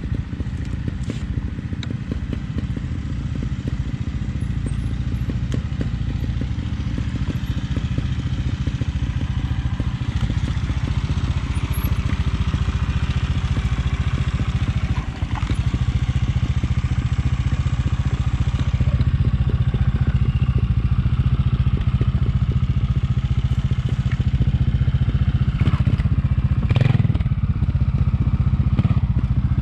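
Trials motorcycle engine running at low revs with a rapid, even pulse, getting louder about halfway through.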